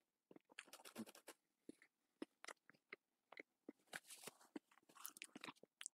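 Faint chewing of a cookie with peanuts in it: scattered soft clicks and crunches, with a paper napkin rustling against the mouth about four seconds in.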